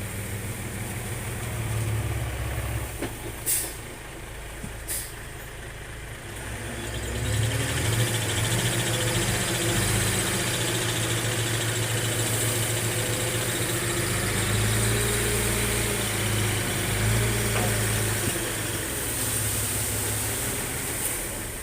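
Engine of a heavy farm machine running steadily, with two sharp clicks a few seconds in. From about a third of the way through, a steady high hiss joins the engine.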